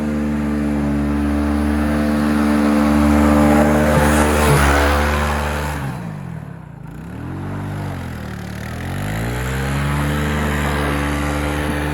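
Vehicle engine held at steady high revs, then dropping and picking back up twice about halfway through before settling at steady revs again. It is being worked hard enough that the riders think it is getting hot, after hearing a little pre-detonation.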